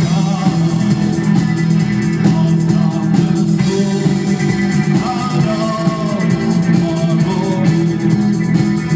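Rock band playing a song cover: guitars and bass over a drum kit, with a melody line wavering over the top about halfway through.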